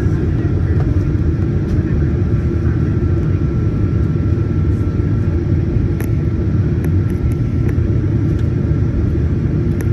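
Cabin noise inside a Boeing 737-900ER: its CFM56-7B jet engines give a steady low rumble, with a faint steady whine above it.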